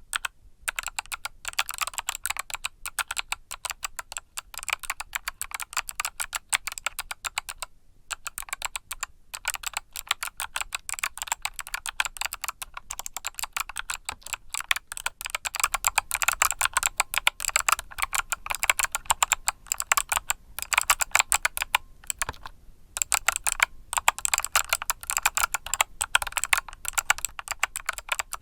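Mechanical keyboard with Kailh Box Summer switches being typed on continuously in a fast run of sharp keystroke clicks, with a few brief pauses.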